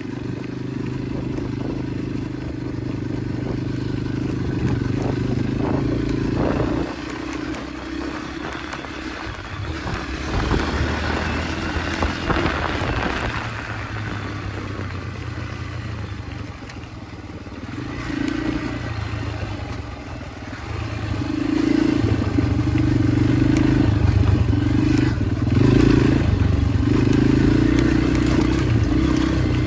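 Yamaha dirt bike engine running while ridden along a trail, its note rising and falling with the throttle and getting louder with choppy bursts of revs about two-thirds of the way through, with crackle and scrape from the ground.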